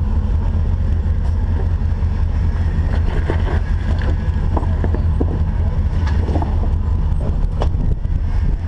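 Off-road Jeep's engine running with a steady low rumble as it crawls, with scattered short knocks and creaks over it.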